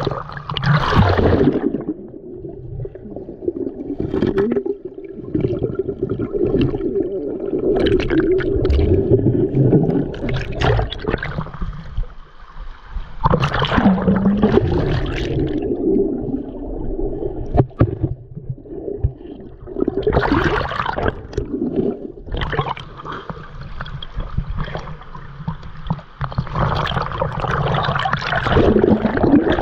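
Mountain stream water gurgling and splashing close to the microphone, coming in uneven rushes.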